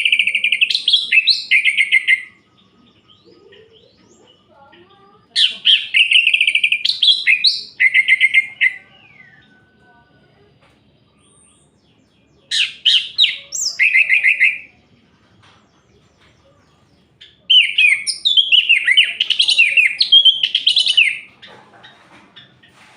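Orange-headed thrush (anis merah) singing: four loud phrases of quick, varied whistled and chattering notes, each two to three seconds long, with short pauses between them.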